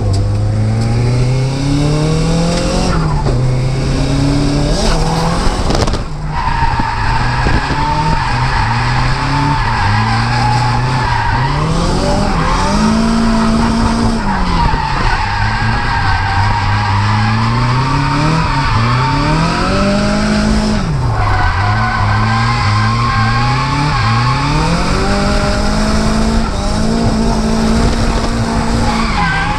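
Nissan S14's turbocharged SR20DET four-cylinder being revved hard during a drift run, its pitch climbing and dropping again and again. Tyres squeal and skid throughout.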